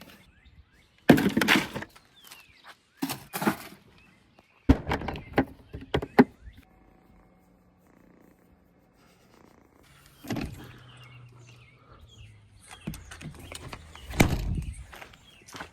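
Truck door and gear being handled: a string of sharp knocks and thumps in the first half, quieter handling sounds in the middle, and a louder thump near the end.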